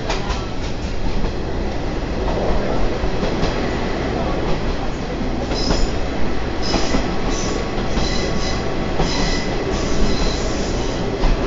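Torokko Wasshi trolley train running along the track, heard from aboard: a steady rumble of wheels on rails. From about halfway in, a series of short, high-pitched wheel squeals comes in, typical of the wheels taking a curve.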